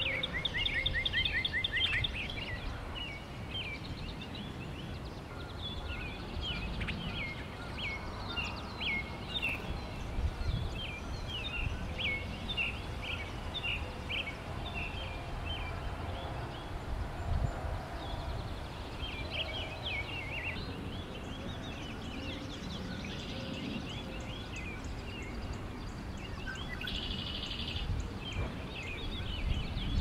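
Small birds chirping and calling almost continuously, with a fast trill of quick repeated notes near the start and another near the end, over a steady low rumble.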